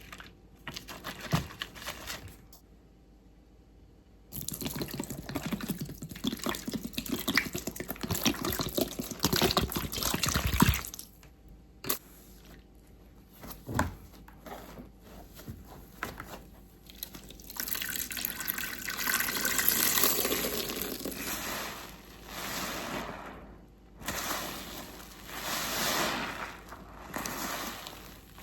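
Waffle car-wash sponge soaked with detergent being squeezed and wrung, the soapy liquid squelching and dripping out. It comes in repeated squeezes with short pauses, loudest and longest about 4 to 11 seconds in.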